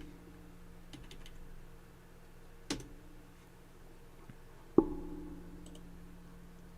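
Scattered clicks and taps of a computer mouse and keyboard, about half a dozen in all, the loudest a knock a little past two-thirds of the way through with a short low ring after it. A steady low electrical hum runs underneath.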